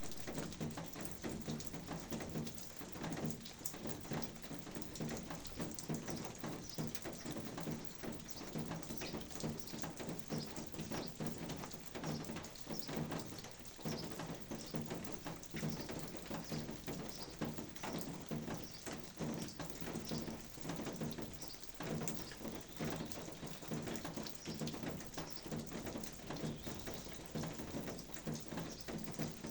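Steady rain falling, with many individual drops tapping close by on surfaces.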